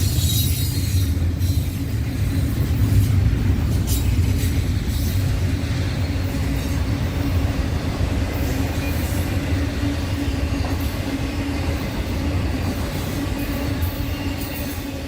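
Freight train rolling past: a heavy low rumble with a steady hum and scattered sharp clicks of wheels over rail joints, growing quieter near the end.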